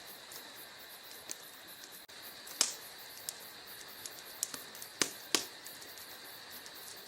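Wood fire in a fireplace crackling over a steady hiss, with frequent small ticks and three louder pops about two and a half, five and five and a half seconds in.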